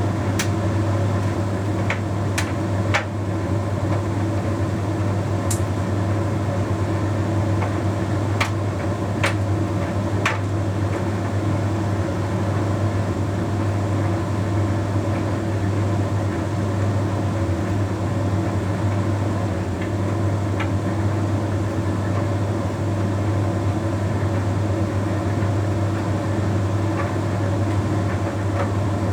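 Bosch Series 6 heat pump tumble dryer running with a steady low hum, during its self-cleaning condenser phase near the end of the Shirts cycle. A few sharp clicks come in the first ten seconds.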